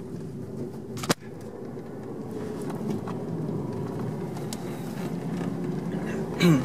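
Car cabin noise while driving: engine and road rumble that slowly grows louder, with a single sharp click about a second in.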